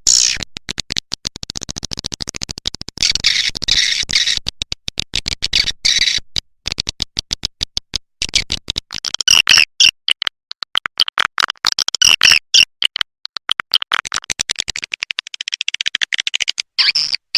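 Swiftlet call-sound lure track: edible-nest swiftlet twittering, rapid trains of high-pitched chirps and clicks with short breaks, played to draw swiftlets into a nesting house.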